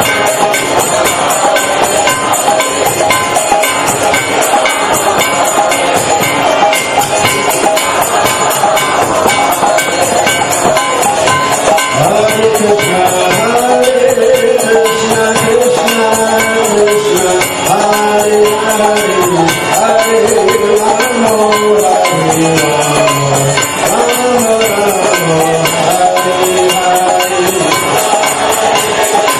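Devotional temple music: a chanted melody carried over steady jingling percussion, with the voices coming through more clearly in the second half.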